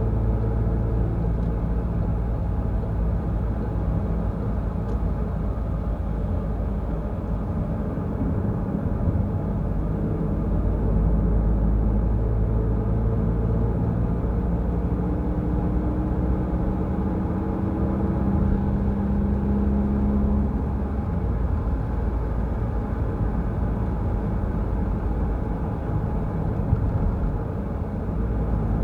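Car driving on a wet road: a steady rumble of engine and tyres, with the engine note rising slowly as the car accelerates in the middle.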